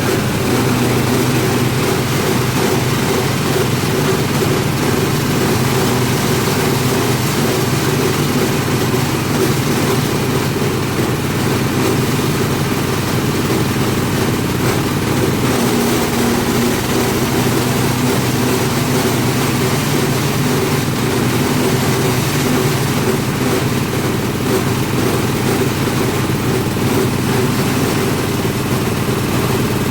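Fabric shredding machine running steadily, a constant motor-driven hum with no change in speed.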